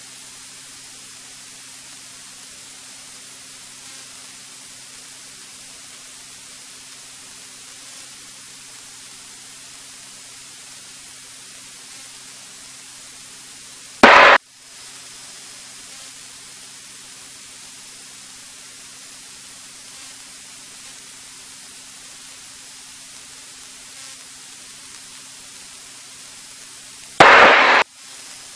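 Steady hiss of a cockpit intercom and radio audio feed with a faint steady low hum under it, broken twice by short, loud bursts of static, the first about 14 seconds in and a longer one near the end.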